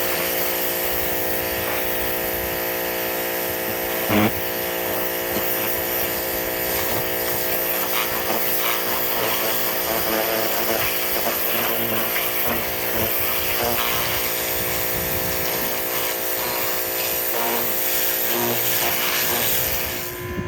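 Ryobi 2300 PSI corded electric pressure washer running steadily, its motor humming under the hiss of the water spray as it blasts degreaser and rust off motorcycle engine parts. A brief knock about four seconds in; the washer stops near the end.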